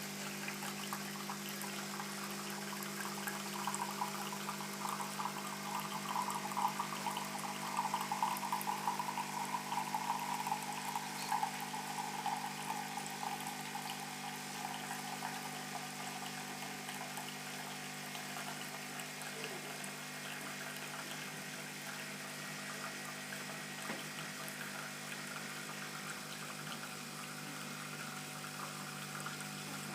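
Bosch Vero Cafe bean-to-cup coffee machine dispensing coffee into a cup: a steady hum from the machine under a constant flow of coffee pouring. The pouring is loudest for several seconds early on, then settles to a quieter trickle.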